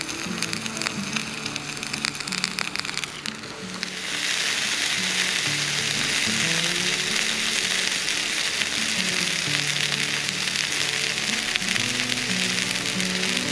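Food frying in a hot pan: scattered crackles at first, then about four seconds in a loud, steady sizzle starts and holds. Background music with a simple melody plays underneath.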